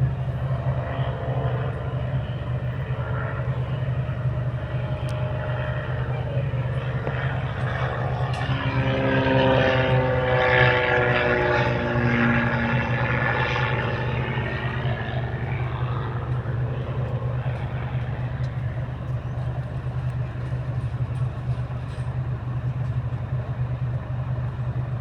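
Agricultural crop-spraying plane's propeller engine flying past: it swells to its loudest about ten seconds in, then its pitch falls as it moves away. A steady low hum runs underneath throughout.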